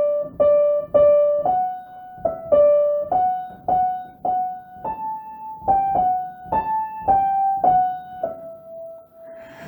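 Piano playing a slow, simple single-note melody, about sixteen notes struck one after another, the last held longer near the end.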